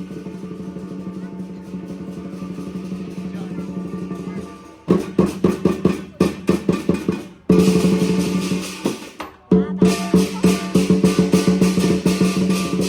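Lion dance drumming: a fast drum roll over steady ringing tones, then from about five seconds in, loud separate strikes broken by short gaps.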